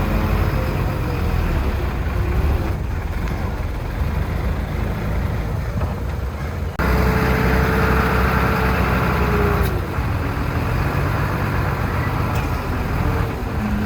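Heavy diesel earthmoving machinery running with a low engine drone. About seven seconds in it abruptly gets louder and a whine rises above the drone, sagging slightly in pitch over a couple of seconds before it eases back.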